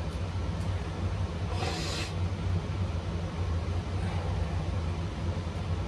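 Steady low hum in the workshop, with a short scrape of small metal parts about two seconds in and a fainter one near four seconds, as screws on a small-engine carburettor are undone.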